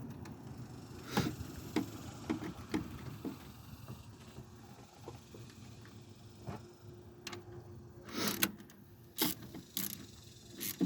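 Scattered metallic clicks and knocks of hand tools working on the engine bay: a run of light clicks about half a second apart early on, then a few louder knocks near the end.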